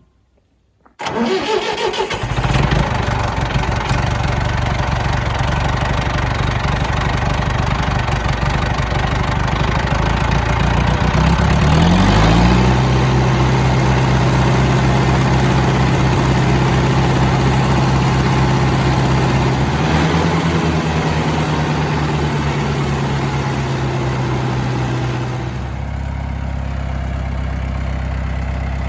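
International Harvester 574 tractor engine starting about a second in, catching quickly and running steadily. Its speed rises around the middle as it is throttled up, then drops back to a slower, quieter idle near the end.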